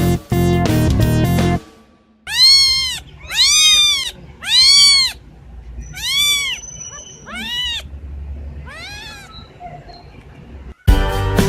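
A cat meowing about six times in a row, each meow rising then falling in pitch, the last ones fainter. Background music stops just before the meows and starts again near the end.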